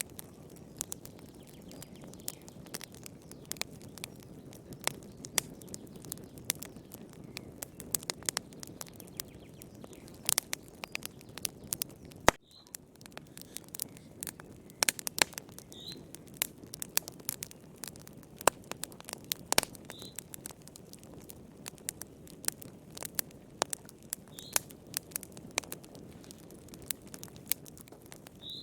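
Wood fire crackling in a fireplace: irregular sharp pops and snaps over a steady low flame rush, with faint short high chirps about every four seconds in the second half.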